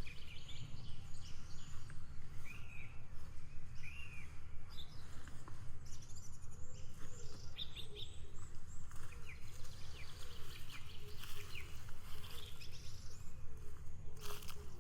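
Forest birds chirping and calling in short, scattered phrases over a steady low rumble of outdoor background noise.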